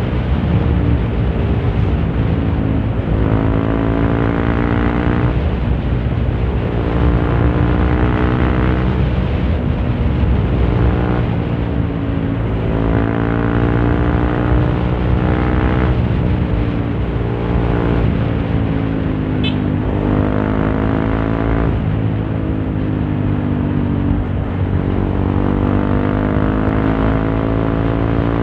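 Honda CRF150L's single-cylinder engine running through a Norifumi Torc aftermarket exhaust while riding, its note rising and falling every two to three seconds as the throttle is opened and closed, heard from inside the rider's helmet.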